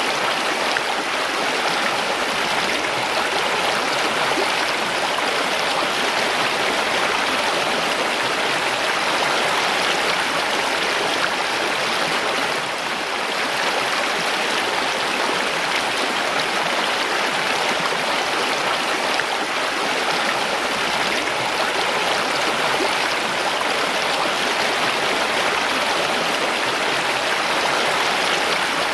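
Mountain stream flowing over rocks: a steady, continuous rush of water.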